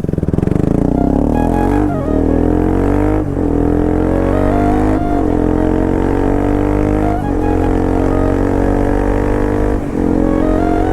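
Bajaj Pulsar RS200's single-cylinder engine and exhaust under hard acceleration, its pitch climbing steadily in each gear and breaking at each upshift, about five shifts in all.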